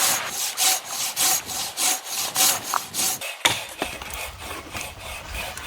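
Hand saw cutting through firewood, quick even rasping strokes about four a second, stopping about three and a half seconds in.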